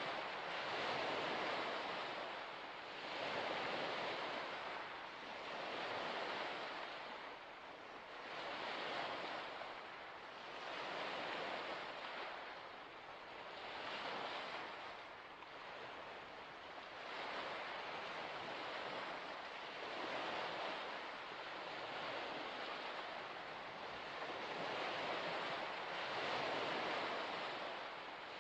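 Small waves washing onto a shore, each wash swelling and fading about every two to three seconds.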